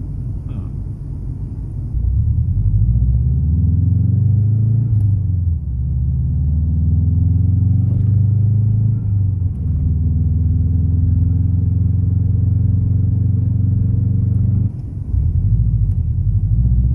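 1991 Subaru Legacy turbo's turbocharged flat-four engine, heard from inside the cabin while the car is driven: the engine note climbs with revs, falls at a gear change about five and a half seconds in and again near ten seconds, then holds steady and dips briefly near the end. The freshly built forged engine is being run in on a rough base tune.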